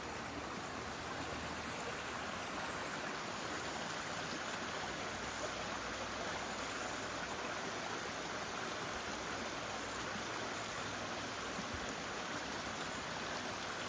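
Mountain stream running over rocks beneath a footbridge: a steady rush of flowing water. The water is running lower than usual after a dry spell.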